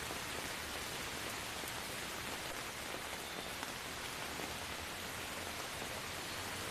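Steady rainfall, an even patter of rain on surfaces with scattered drop ticks.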